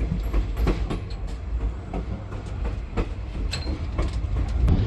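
Rumble of a moving train heard from inside a 110-year-old railroad passenger car, steady and low, with frequent irregular clicks and rattles from the wheels and the car.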